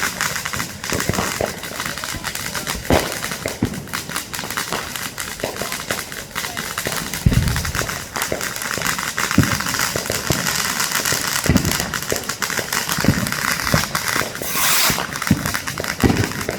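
Many consumer fireworks and firecrackers going off at once: a dense, continuous crackling with scattered low booms every second or two, and a brief rushing hiss near the end.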